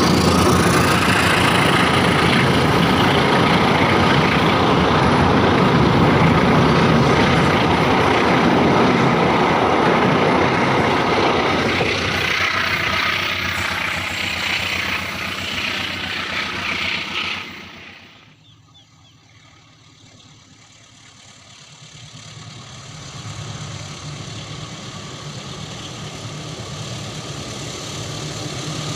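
Train running past with loud wheel and carriage rumble, easing after about twelve seconds and dropping away sharply a little past halfway. A low diesel engine drone then builds slowly.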